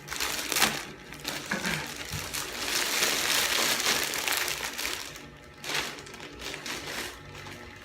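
Plastic packaging being torn open and crinkled by hand, with continuous rustling that is heaviest in the middle and eases near the end.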